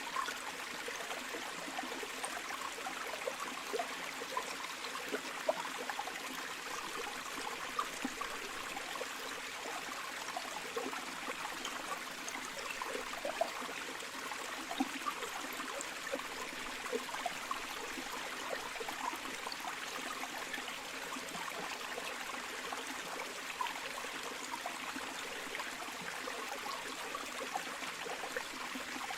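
Shallow river or stream flowing steadily, a constant rush of water dotted with many small splashes and trickles.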